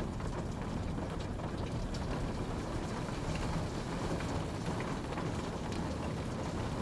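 Steady rain falling: an even hiss with a low rumble, and scattered individual drops ticking.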